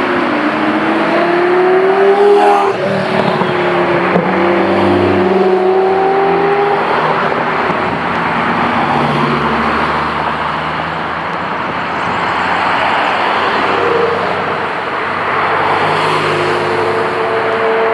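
Sports car engines accelerating. The pitch climbs, drops at a gearchange about two and a half seconds in, then climbs again. From about seven seconds in, a dense rushing engine and road noise takes over.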